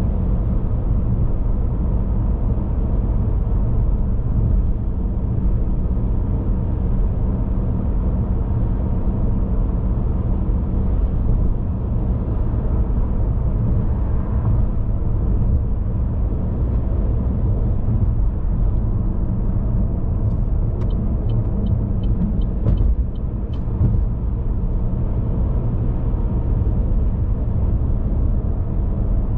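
Car driving at steady speed: a constant low rumble of engine and road noise. A little over two-thirds of the way in comes a short run of light, evenly spaced ticks lasting about three seconds.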